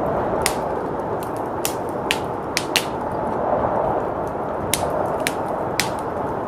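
Wood fire crackling, with about eight sharp, irregular pops, over the steady rushing noise of blizzard wind.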